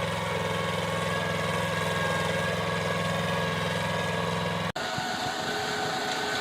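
Small tractor engine running steadily. About three-quarters of the way through, the sound cuts out for an instant and a different engine takes over.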